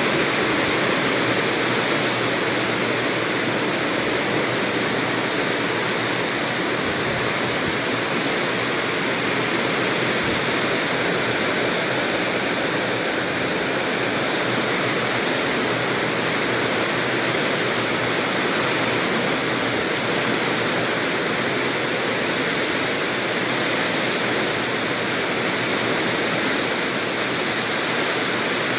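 Heavy rain pouring down in a steady, unbroken roar of noise.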